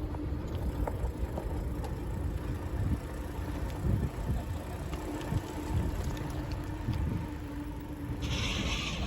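Riding on a bicycle: wind buffeting the microphone and tyre rumble, with a faint steady hum and a few light clicks. A brief hiss comes in near the end.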